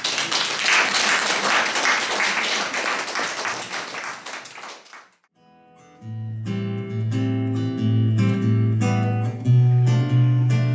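Audience applauding for about five seconds. After a brief pause, an acoustic guitar starts picking the opening notes of the next song.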